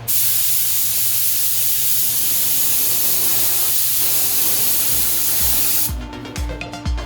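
Compressed-air paint spray gun hissing steadily while spraying, over a steady low hum. Music with a beat comes in near the end.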